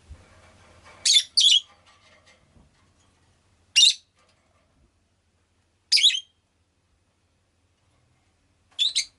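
Rosy-faced lovebird giving short, sharp, high-pitched chirps: a pair about a second in, then single calls roughly every two seconds, and a quick double call near the end.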